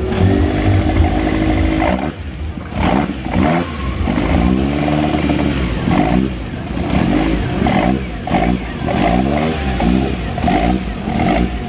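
Turbocharged Toyota AE86 engine revving hard over and over, its pitch climbing and dropping roughly once a second or so. Short bursts of hiss come between some of the revs.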